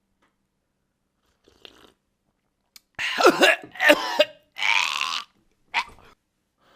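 A person's non-speech vocal sounds: a loud voiced, burp-like sound with wavering pitch about three seconds in, then a long breathy exhale and a short sharp huff, with a faint click before them.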